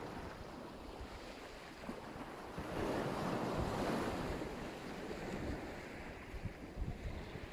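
Black Sea surf breaking on the shore: a steady wash of waves, with one wave surging louder about three seconds in and then washing back out. Wind buffets the microphone with an uneven low rumble.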